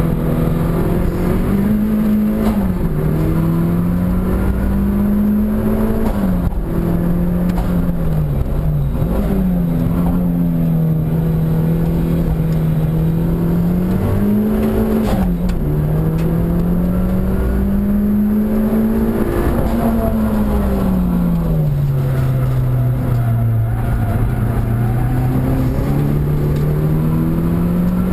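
Mitsubishi Lancer GSR race car's engine heard from inside the cabin while driven hard, its note rising and falling with the corners. It drops sharply and recovers three times, then falls slowly and climbs again near the end.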